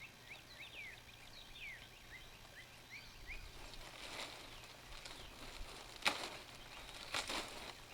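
A songbird calls a string of short, quick rising chirps, about three a second, through the first few seconds. From about halfway, a few brief crackles and rustles of handling, as the first bag of lava rock is opened.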